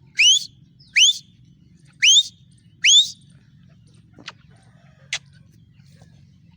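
Female francolin (teetar) calling: four loud whistled notes about a second apart, each rising sharply in pitch. Two short clicks follow a little later.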